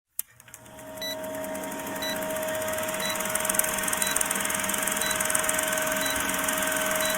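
Electric dryer blowing on a wet kitten's fur: a steady whir that builds over about the first second and then holds, with a short high beep about once a second.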